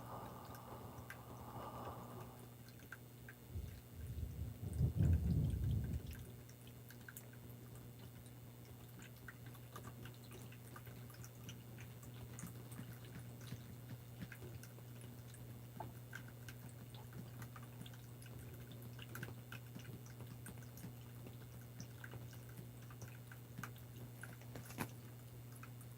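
Water dripping in small, scattered drops over a steady low hum, with a louder low rumbling noise from about four to six seconds in and a sharper click near the end.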